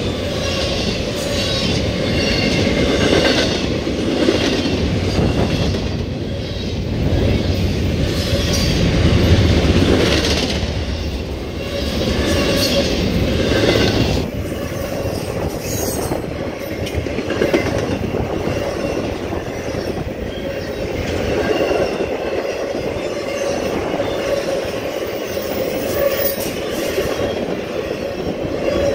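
CSX double-stack container freight train rolling past: a steady rumble and rattle of the cars and wheels on the rails, rising and falling a little as the cars go by.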